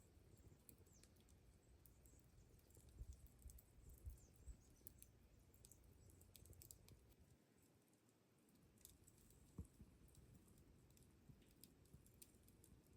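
Near silence with faint, scattered small clicks and ticks, and a few soft low thumps about three to four and a half seconds in and again near ten seconds.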